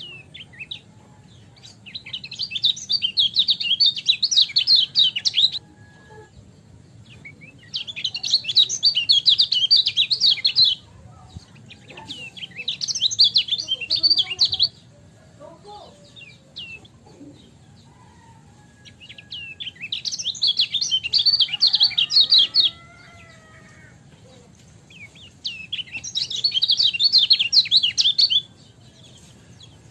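Kecial kuning (yellow white-eye) singing in five bouts of about three seconds each. Each bout is a rapid, high twittering run of chirps, with a few fainter calls in the gaps between them.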